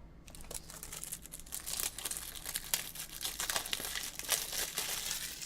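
Plastic crinkling and rustling as trading cards and their packaging are handled, with many small crackles. It picks up about a second in and stays busy to near the end.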